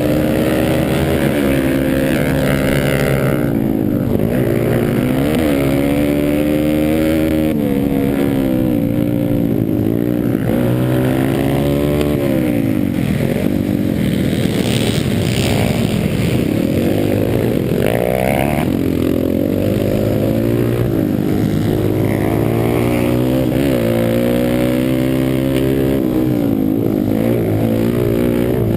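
Pit bike engine racing, its pitch climbing and dropping again and again as the throttle is opened and shut and it runs up through the revs.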